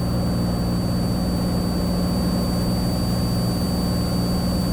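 Steady in-flight drone of a Cessna 182T's six-cylinder Lycoming engine and propeller, heard in the cabin, with a thin steady high tone above it.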